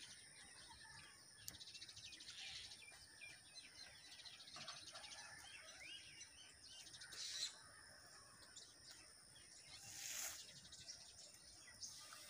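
Faint small birds chirping and twittering in the background over a steady high whine, with two brief rustles about seven and ten seconds in.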